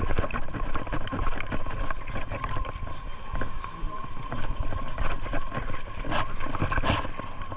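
Water splashing and churning, with many short splashes and people's voices in the background, and a thin steady tone behind it all.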